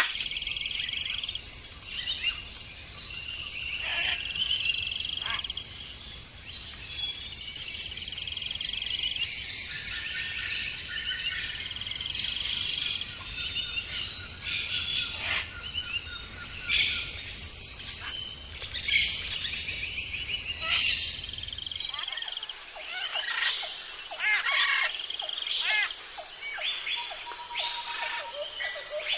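Several birds chirping and whistling, with a fast repeated trill of about four notes a second for several seconds. A low background rumble underneath cuts out suddenly about three-quarters of the way through.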